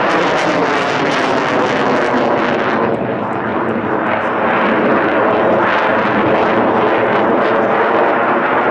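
Fixed-wing aircraft in flight, its engine noise loud and steady, dipping slightly about three seconds in.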